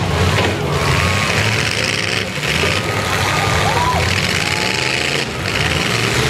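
Several demolition derby cars' engines running and revving together in a loud, dense mix, with two brief lulls about two and five seconds in.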